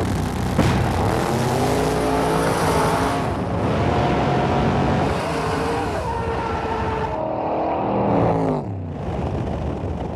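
Street race cars at full throttle, engine notes rising and falling in pitch several times as they run down the street.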